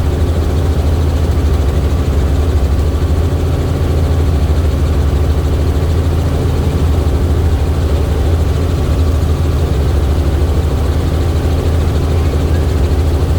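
Helicopter engine and rotor running with a loud, steady drone and a low hum.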